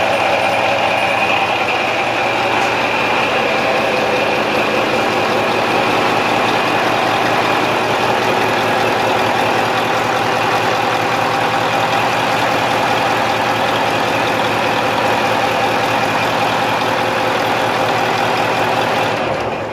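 Scania DSI14 14-litre V8 marine diesel engine running steadily at an even speed, its sound falling away right at the very end.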